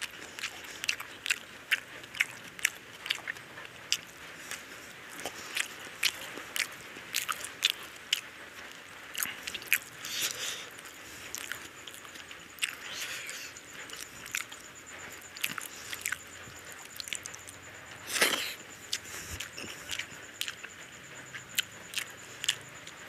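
Chewing and wet mouth sounds of a person eating rice and curry by hand: an irregular string of short, sharp clicks, a couple a second, with one louder, longer noise about eighteen seconds in.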